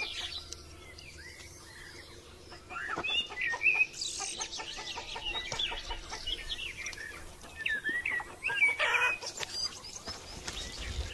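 Chickens clucking, with small birds chirping in quick, high calls.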